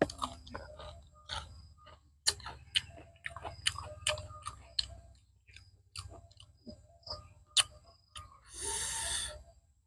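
Close-miked wet chewing of raw shrimp: irregular lip smacks and squelchy clicks, with a short hiss near the end.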